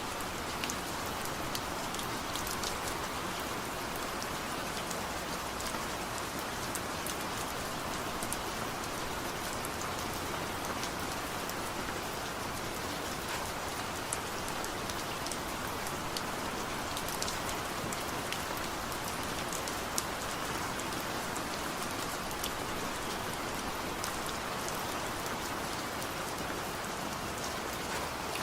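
Steady rain falling, an even hiss with scattered sharp taps of individual drops striking a surface, no thunder.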